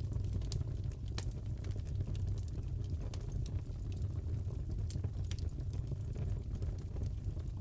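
Wood fire crackling in a fireplace: a steady low rumble with scattered, irregular sharp pops and snaps.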